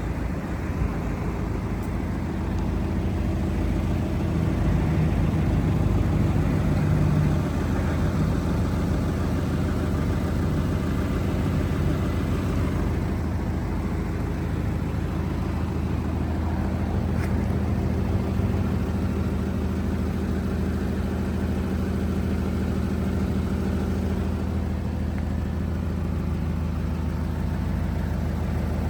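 Turbocharged Scion FR-S's 2.0-litre flat-four engine idling steadily, a little louder for a few seconds around five seconds in.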